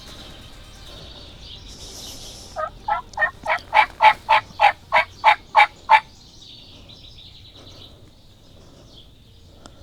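Wild turkey yelping: a run of about a dozen evenly spaced notes, three or four a second, growing louder over the first few and then holding steady.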